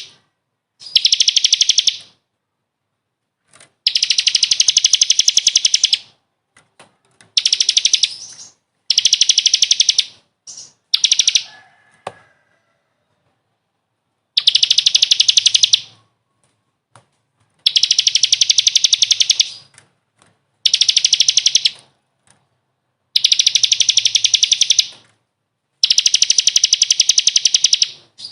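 A songbird's masteran recording: a fast, high trill delivered in about ten bursts of one to two seconds each, with short pauses between them.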